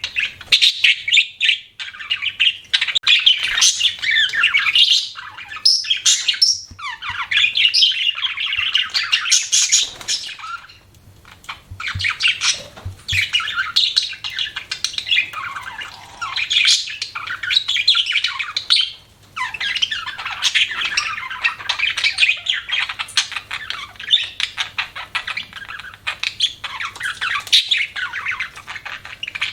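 Budgerigars chirping and warbling, a dense run of quick chirps, squawks and chatter with brief lulls.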